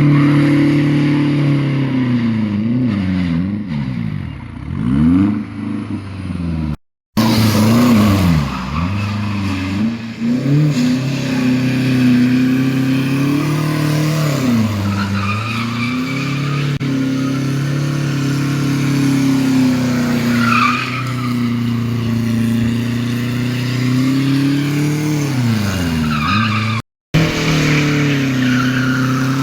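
Mercedes-Benz C220 turbo diesel engine revving up and down during a burnout, with the tyres squealing as they spin. The sound cuts out briefly twice.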